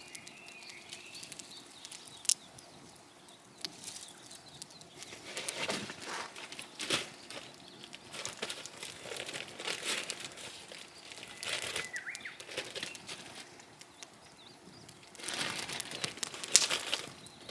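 Irregular rustling and crinkling in uneven patches, with a few sharp clicks.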